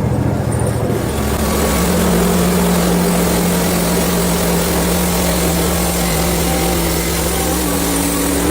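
Portable bandsaw mill's small gasoline engine running steadily. About a second in its sound changes, settling into a steady hum with hiss above it.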